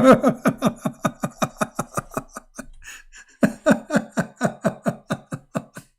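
A man laughing hard in two bouts of quick, rhythmic 'ha-ha' pulses, about six a second, with a short break for breath about three seconds in.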